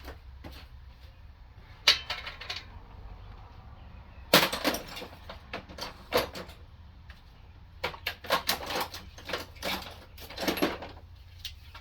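Metal hand tools and sockets clinking and clattering in several short bursts as they are rummaged through and handled, over a faint steady low hum.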